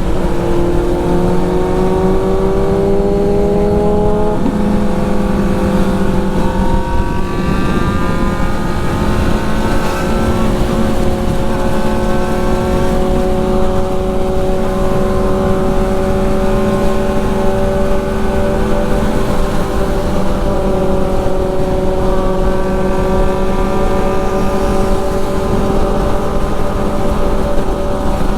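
Motorcycle engine running under way over steady wind rush, its note climbing gently a few times as it picks up speed.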